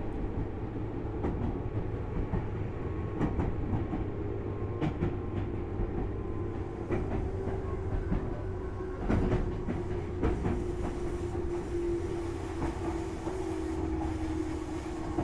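Onboard running sound of a Tobu 6050 series resistor-controlled electric train, heard from its motor car: a steady low rumble and a steady hum from the running gear, with the wheels clicking over rail joints one or two times a second.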